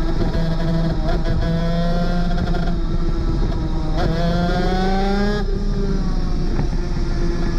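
Superkart's 250cc two-stroke engine running hard under load. Its pitch climbs for about a second and a half, then drops suddenly, as at a gear change.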